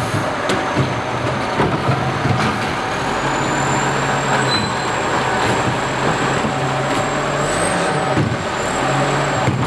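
Garbage truck running, its engine humming steadily, with a few sharp clicks and knocks.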